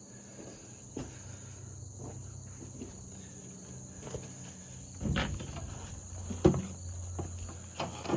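Steady high-pitched insect chirring, like crickets, under a few scattered knocks and clicks from handling parts. The sharpest click comes about six and a half seconds in.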